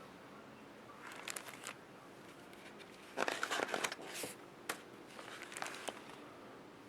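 Paper crinkling and rustling in a few short bursts as a picture book is handled and its page turned, with one small sharp click partway through.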